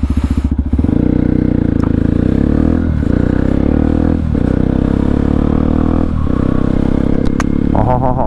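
Motorcycle running on a full-system exhaust with the dB killer removed (fully open), pulling away and riding on. The engine note rises about a second in and breaks briefly three times, as at gear changes.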